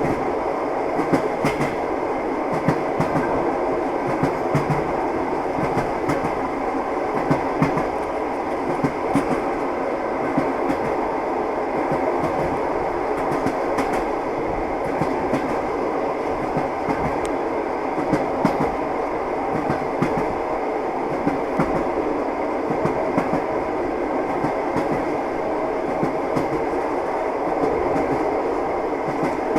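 Train running steadily, its wheels clattering over the rails with a constant rumble and frequent short clicks and knocks.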